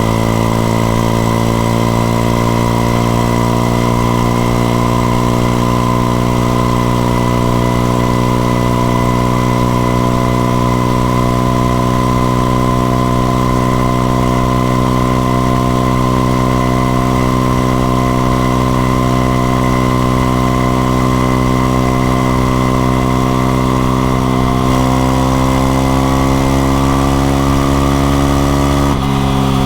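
Honda XRE 190's single-cylinder engine running steadily while riding, its pitch easing slowly down. Near the end the revs drop suddenly and fall away.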